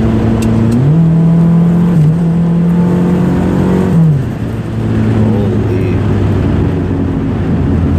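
Turbocharged Toyota Tercel four-cylinder engine running under way, heard from inside the cabin, holding a steady note that drops in pitch about a second in and again about four seconds in, with a brief dip in loudness at the second drop.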